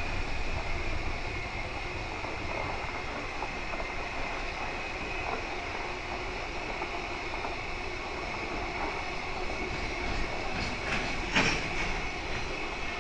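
Container wagons of a freight train rolling past at speed: a steady rumble of wheels on rail with occasional clacks, and one sharp, louder clank about eleven seconds in.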